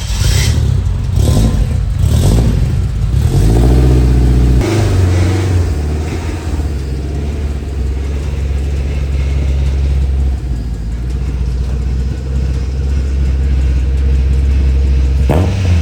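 Turbocharged K20A2 four-cylinder engine in a Honda Civic hatch running with a few blips of the throttle in the first few seconds, then settling to a steady low run as the car is driven slowly.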